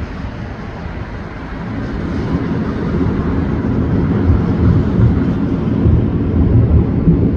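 Fireworks display heard as a dense, continuous low rumble of many overlapping bursts, growing louder from about two seconds in.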